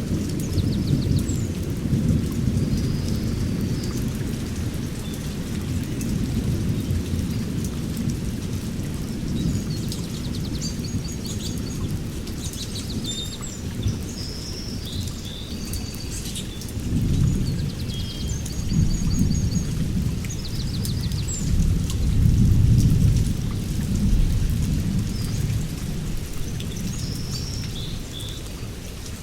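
Rainforest thunderstorm: rain falling under a continuous low rumble of thunder that swells twice in the second half. Short high chirping calls are scattered through it.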